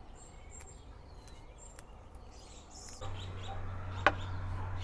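Faint bird chirps: a few short, high calls in the first two seconds. About three seconds in a low steady hum starts, and a single sharp click comes near the end.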